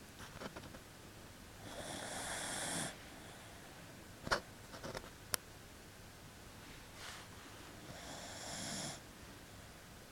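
Shiba Inu dog snoring in its sleep: two long snores about six seconds apart, each with a high whistling edge, and a few short sharp clicks between them.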